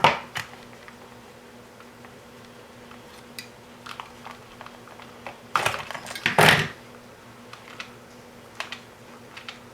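Small parts and tools handled on a workbench while wiring a breadboard: a sharp click at the start, then scattered light ticks and taps. A little past halfway come two short, louder rattling scrapes, over a faint steady hum.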